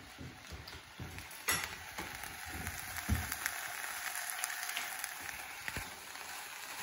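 Diced potatoes, onions and chorizo frying in a saucepan with a steady gentle sizzle, with a few sharp knocks and the scrape of a spatula stirring the pan.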